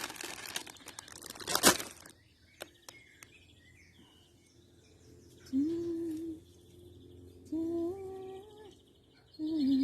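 Rustling and crinkling for about two seconds, with a loud swish just before it stops. Later, a person hums three short notes, with faint bird chirps behind.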